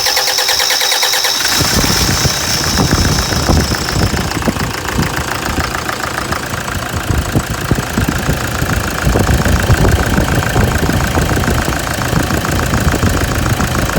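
Toyota 1KD-FTV four-cylinder turbodiesel being cranked by its starter with a high whine, catching about a second and a half in. It then idles with a steady, rapid diesel clatter.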